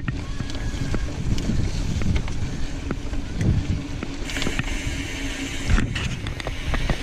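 Mountain bike being ridden on a trail, with tyres rolling over the ground, wind buffeting the microphone, and scattered clicks and rattles from the bike.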